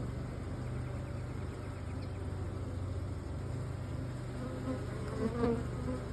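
Steady buzzing hum of a honeybee colony in an open hive.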